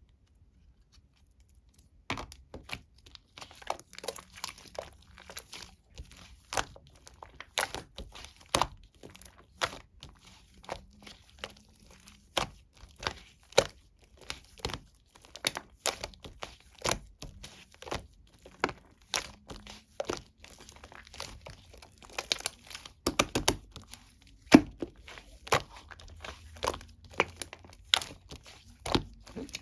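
Mixed slime being squeezed and stretched by hand, making irregular sticky clicks and pops that start about two seconds in.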